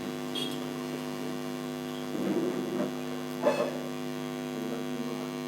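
Steady electrical hum, with a brief high chirp about half a second in and a few faint short knocks or rustles, the loudest about three and a half seconds in.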